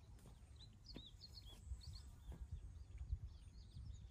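Faint birdsong: many quick, high chirps from small birds, over a low steady outdoor rumble.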